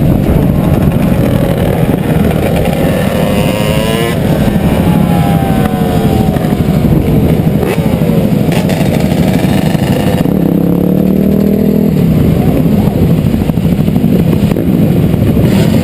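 Dirt bike engines revving up and down, several rising and falling engine tones overlapping over a dense low rumble.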